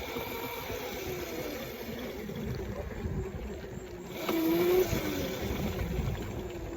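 Small motorbike running as it is ridden, with wind rumbling on the microphone. A short rising-and-falling tone comes in about four seconds in.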